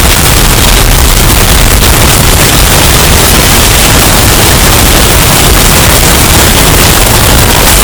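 Hurricane wind sound effect, bass-boosted and overdriven into heavy distortion: a steady, very loud rush of wind noise with a pounding, clipped low end.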